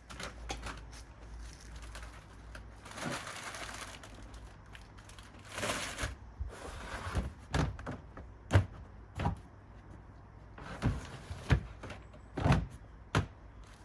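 Handling of containers and packets: a run of sharp knocks and clatters, with two spells of rustling about three and six seconds in.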